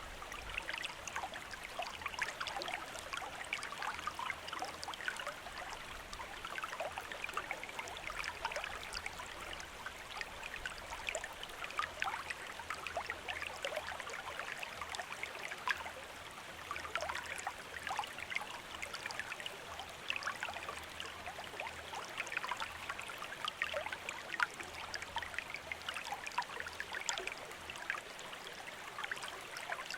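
Shallow stream running steadily over stones, a dense patter of small splashes and bubbling.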